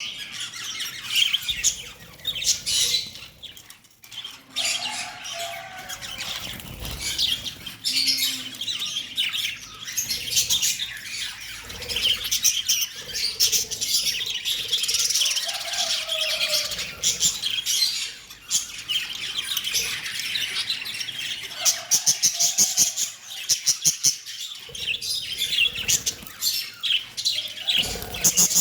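Pet lovebirds chirping and squawking constantly, with fast clicking chatter in the last several seconds.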